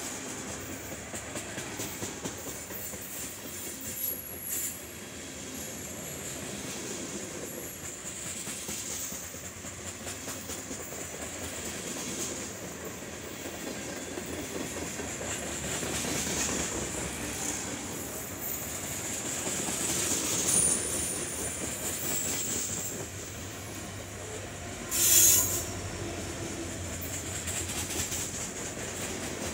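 Freight train tank cars and covered hoppers rolling past, a steady rumble and clatter of steel wheels on the rails with thin high-pitched wheel squeal coming and going. About 25 seconds in there is a brief, much louder burst of noise.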